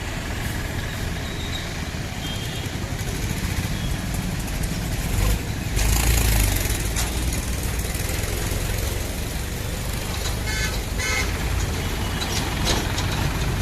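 Road traffic: a steady low engine rumble, with a louder surge as a vehicle passes close about six seconds in, and two short horn toots a little before the end.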